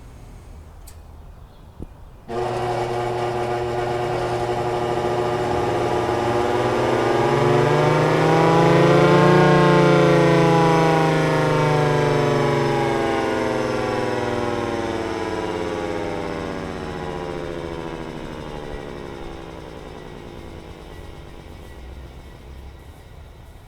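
Federal Signal Thunderbolt outdoor warning siren test run: it starts suddenly about two seconds in, its chord of tones rising in pitch to a peak about ten seconds in, then slowly winding down. The wind-up is very slow, which the owner puts down to misaligned motor bearings causing friction.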